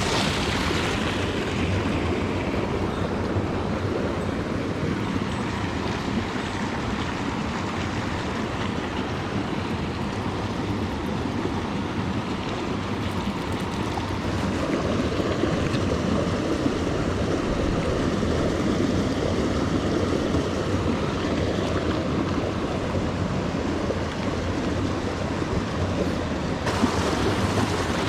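Steady rush of a flowing mountain stream, an even watery hiss with no distinct events.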